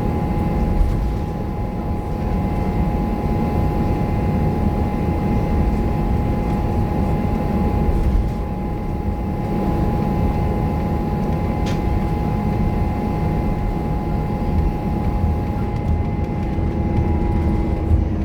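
Scania K230UB bus under way: a steady engine and road rumble with a thin, steady high whine that stops near the end.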